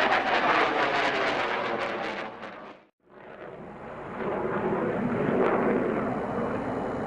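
Military fighter jet engines roaring loudly. The roar drops to silence about three seconds in, then builds back up and holds steady.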